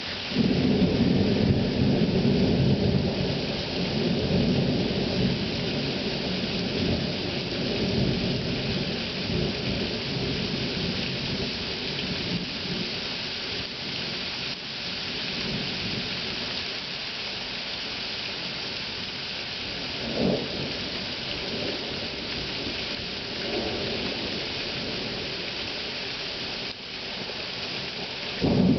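Thunderstorm: heavy rain hissing steadily, with a sudden loud thunderclap about half a second in that rumbles on and fades over several seconds. A short rumble comes about two-thirds of the way through, and another loud peal breaks just before the end.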